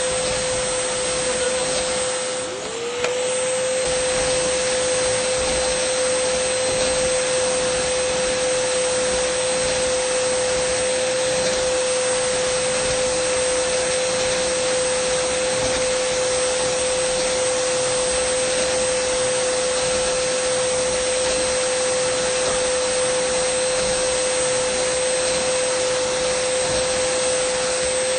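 Dyson vacuum cleaner motor running steadily: a constant whine over the rush of air. About two and a half seconds in, the whine and the loudness dip briefly, then the pitch swoops back up to the same steady note.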